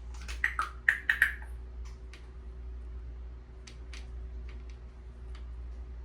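African grey parrot making a quick run of clicks and short chirps in the first second or so, followed by scattered single clicks.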